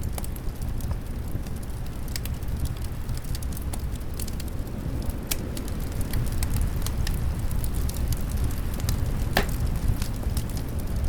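Wood fire crackling with many scattered small pops and one louder pop a little past nine seconds in, over a steady low rumble of wind.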